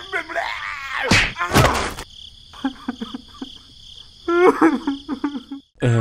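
Cartoon sound effects for toy characters: short, squeaky, pitched gibberish voices, with a loud swishing whoosh about a second in. A steady high-pitched chirring runs beneath them.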